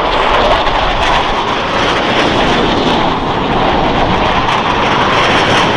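Boeing F/A-18E/F Super Hornet jet engines passing, a loud, steady rushing noise that holds without a break.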